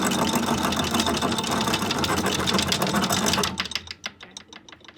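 Electric anchor windlass running, hauling chain up so that it rattles rapidly over the gypsy and down into the chain locker. It stops about three and a half seconds in, leaving a few last separate clanks of chain.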